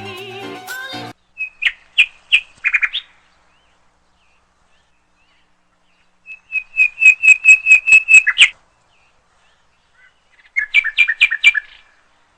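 Background music cutting off about a second in, then a small bird chirping in three bouts of quick, high, repeated notes, the middle bout a run of about nine notes.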